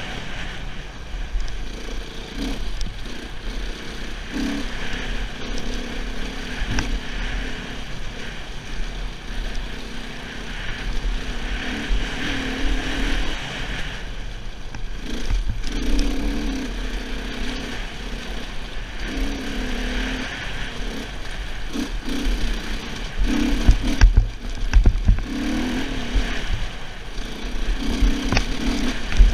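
Husaberg 450FE enduro bike's single-cylinder four-stroke engine pulling at low revs up a rough trail, the note rising and dipping in short surges as the throttle opens and closes. Low rumble and a few knocks of the bike over stones, the knocks bunched about three-quarters of the way through.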